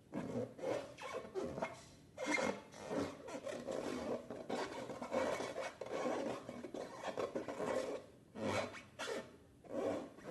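Slime being squeezed and stretched by hand, giving a run of irregular rubbing, rasping sounds with short pauses near the end.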